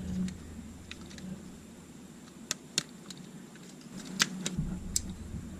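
Scattered sharp little plastic clicks and light taps, about five of them, as a small drone's stock camera is pushed back into its housing by hand.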